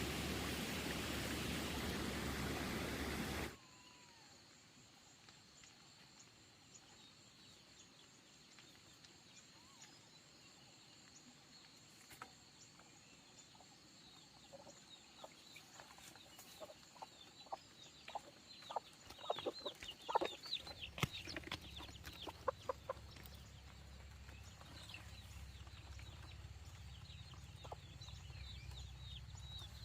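A steady rushing noise that cuts off suddenly a few seconds in, followed by chickens clucking and peeping in many short falling calls, busiest past the middle.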